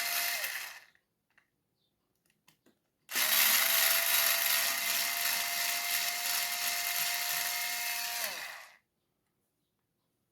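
Power screwdriver running at a steady speed on the RC truck's chassis screws. A short run spins down about half a second in. After a few faint clicks, a second run of about five seconds starts about three seconds in and winds down as it stops.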